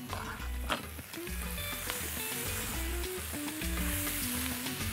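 Chicken and artichoke pieces sizzling in a steel frying pan as a spatula stirs them, with the hiss of the frying growing stronger after the first second or so. Background music with a melody and bass line plays underneath.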